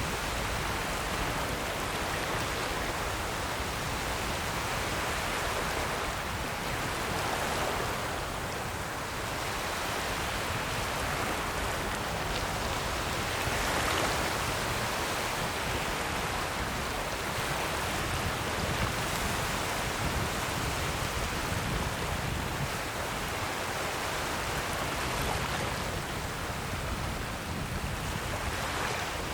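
Ocean waves washing in, a continuous rushing hiss that swells and eases every six or seven seconds as each wave breaks and draws back.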